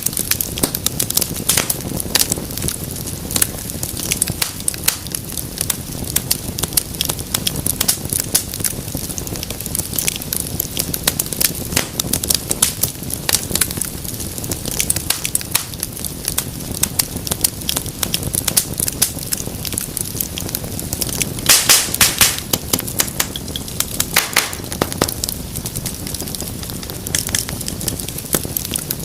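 Wood fire in a fireplace crackling steadily, with dense sharp pops and snaps over a low, even rustle of burning. A flurry of louder pops comes about three-quarters of the way through.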